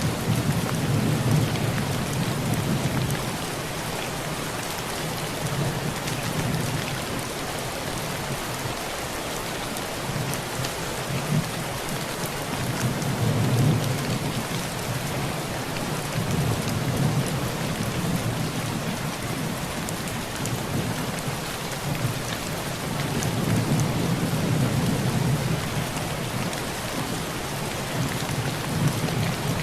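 Heavy rain pattering steadily on a tin roof, with low rolls of thunder that swell and fade several times.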